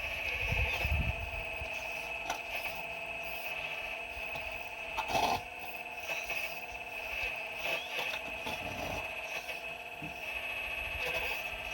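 4200XL excavator working: a steady high-pitched whine with short scrapes and knocks of rock, the loudest knock about five seconds in.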